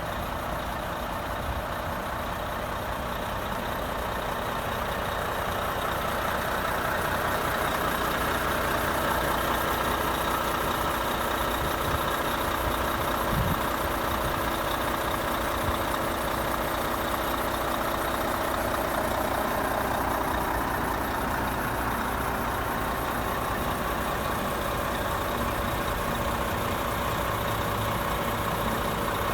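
Renault T460 tractor unit's six-cylinder diesel engine idling steadily, getting a little louder after the first several seconds.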